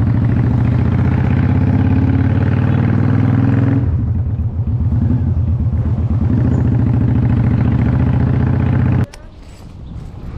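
Motorcycle engine running steadily, its note changing a little under four seconds in, then stopping abruptly about nine seconds in.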